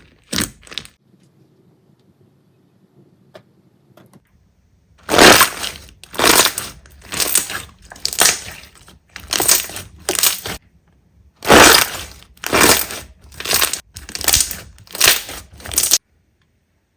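Crunchy slime squeezed over and over: a run of short crackling crunches about every half second to a second, after a few seconds of near quiet. The crunching cuts off suddenly near the end.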